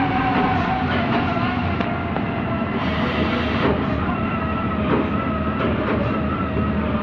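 Heavy diesel machinery working: a steady engine noise with a wavering hydraulic-type whine and a few short metallic knocks.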